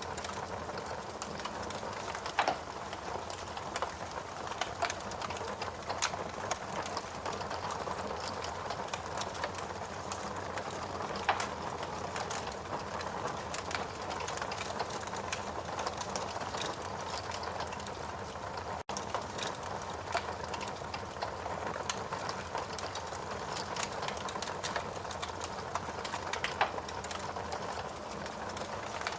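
Wood fire burning in a fireplace: a steady hiss with irregular crackles and pops, a few of them sharper and louder.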